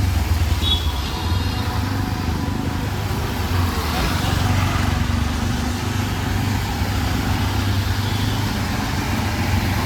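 Street traffic: motor vehicles running with a steady low rumble, with a brief high-pitched tone about a second in.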